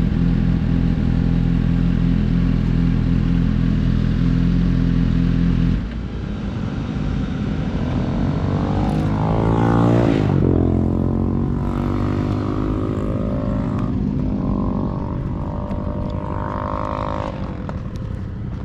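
Superbike engines on the road: a steady engine note for about six seconds that drops away suddenly, then engine notes rising and falling. They are loudest about ten seconds in, where one sweeps down in pitch.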